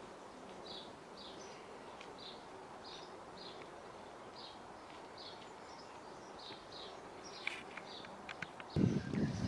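A bird calling outdoors: a short high note repeated regularly, about once every half second to second, over a faint steady background. A few sharp clicks come near the end, then a louder low rumble starts just before the end.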